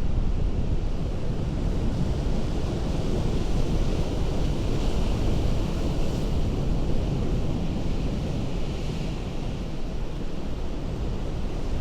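Ocean surf washing against a rocky coast, a continuous roar of water with low wind rumble on the microphone. The hissing wash of the waves swells about five seconds in and again near nine seconds.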